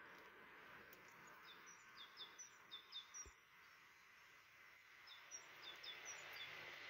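Faint songbird chirping: two runs of short, high chirps in quick succession, one starting about a second and a half in and another about five seconds in, over a steady background hiss.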